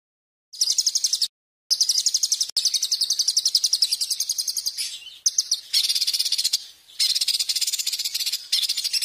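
A songbird's rapid, high-pitched trilling: long runs of fast repeated notes, starting about half a second in, with a few short breaks that start and stop abruptly.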